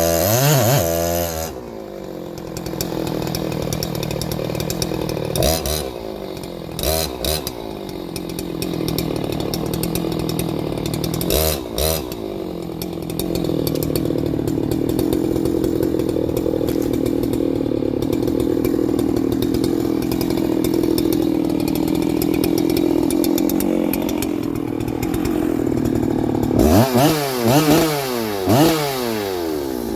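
Ported Husqvarna 3120XP two-stroke chainsaw cutting hard timber. It holds a long steady pitch under load, with short blips in between, and revs up and down freely near the end. The owner blames the ignition coil for holding back its revs, saying it bounces off the limit at about 9,800.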